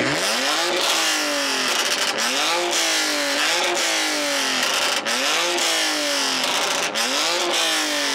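Car engine revved hard over and over, its pitch climbing and dropping back about seven times in quick succession.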